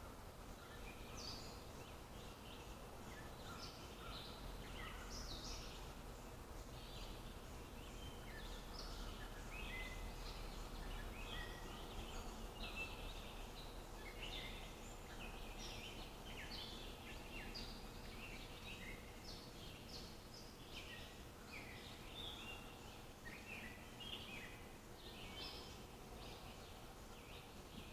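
Several birds calling and chirping, many short calls overlapping throughout, over faint steady background noise.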